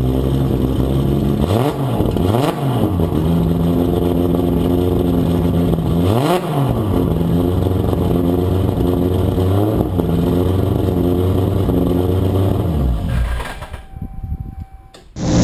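Toyota Supra MK4's 2JZ-GTE twin-turbo straight-six engine running hard at high revs. Its pitch dips sharply and climbs back three times, then the sound fades away near the end.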